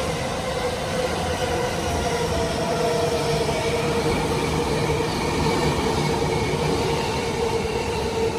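Electric train running through the station platform: a steady rolling rumble with several steady humming tones over it.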